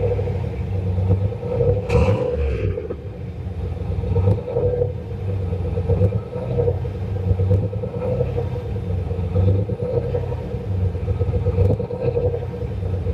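Turbocharged 351 Windsor V8 in a Fox-body Mustang running under way, a steady low rumble that swells and eases. About two seconds in there is a short, sharp hiss.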